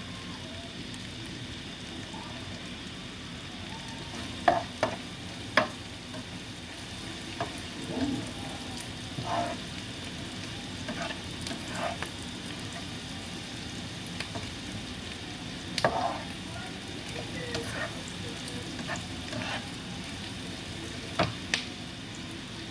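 Sliced shallots sizzling steadily in hot oil in a frying pan, stirred with a spatula. The spatula knocks sharply against the pan a few times, loudest about four to six seconds in, around sixteen seconds in and near the end.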